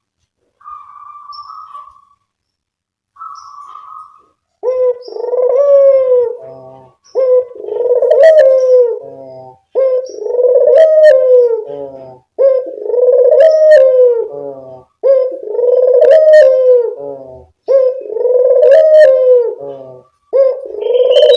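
Puter dove (Barbary dove) cooing: two faint short coos, then a loud, repeated cooing call about every two and a half seconds, seven times.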